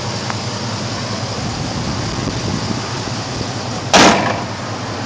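Dodge Ram's LPG-converted engine idling steadily. A single sharp knock about four seconds in, louder than the engine, dies away quickly.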